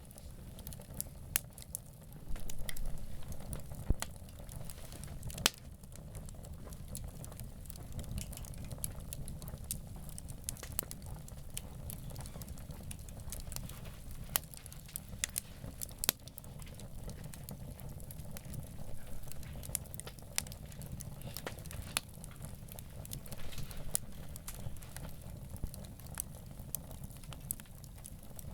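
Wood campfire crackling, with irregular sharp pops and snaps over a steady low rumble. The crackling swells briefly about three seconds in.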